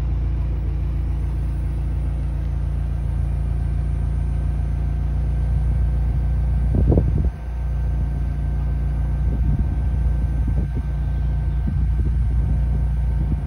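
McLaren 720S's twin-turbo V8 idling steadily, with a short louder flurry about halfway through and a sudden dip just after.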